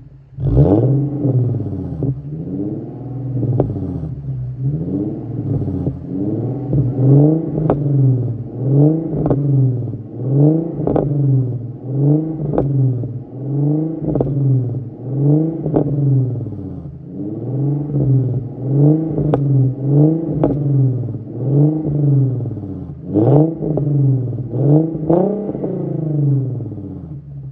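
Infiniti Q50 3.7's VQ37VHR V6 with a muffler delete being revved over and over, a quick blip about every second and a half, each rising and dropping back, with sharp pops or cracks from the exhaust on many of them.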